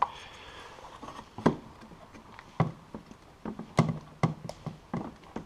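Irregular sharp clicks and taps of parts being handled and fitted while a snowmobile exhaust muffler is installed, about a dozen in all at uneven spacing.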